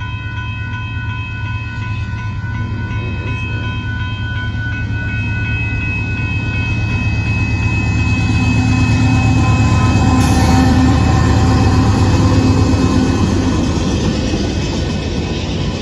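Union Pacific diesel locomotive rumbling closer and passing over a grade crossing, loudest about two-thirds through, with ballast cars rolling by behind it. A railroad crossing bell rings steadily and is drowned out as the locomotive goes by.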